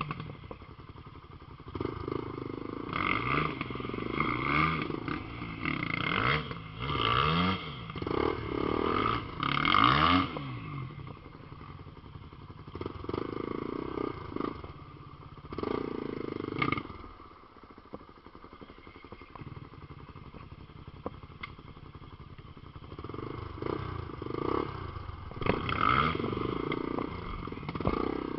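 Off-road motorcycle engines revving hard under load on a steep trail climb, the pitch rising and falling with each burst of throttle. The revving eases to a lower, steadier running for several seconds in the middle before picking up again near the end.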